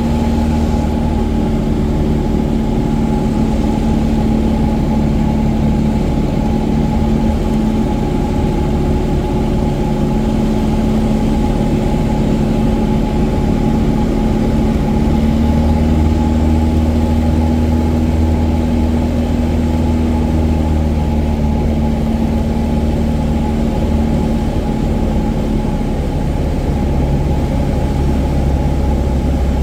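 Cessna 177 Cardinal's piston engine and propeller droning steadily, heard from inside the cabin. The pitch drifts a little around the middle and the low hum swells, but the drone holds without a break.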